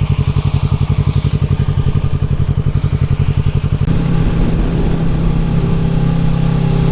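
A Kawasaki Ninja 650's parallel-twin engine idles with an even, lumpy beat. About four seconds in there is a sharp click, and the engine goes over to a steady, higher-revving drone as the bike gets going.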